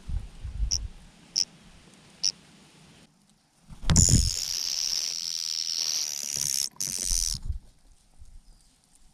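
Birds jostling: low thumps, three short high chirps, then a loud hissing noise lasting about three and a half seconds, cut by a brief gap near the end.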